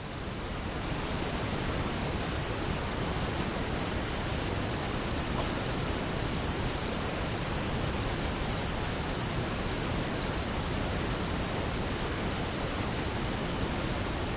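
Crickets chirping in a steady, high, pulsing trill over an even background rush of noise.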